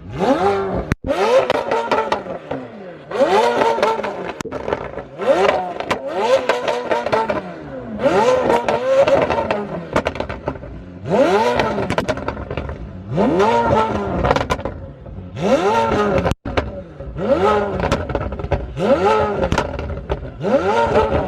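A performance car engine being revved over and over, about ten rev blips roughly two seconds apart, each rising in pitch and falling back.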